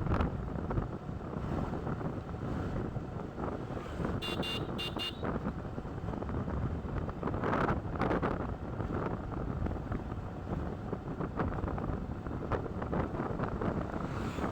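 Wind buffeting the microphone over the rumble of a motorcycle riding along a road. About four seconds in, a high horn beeps a few short times.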